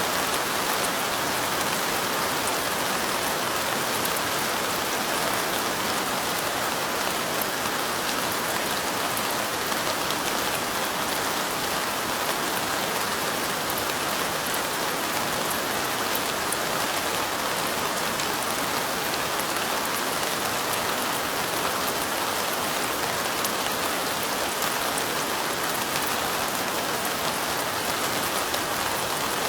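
Steady rain falling, an even hiss sprinkled with many small drop ticks that never lets up.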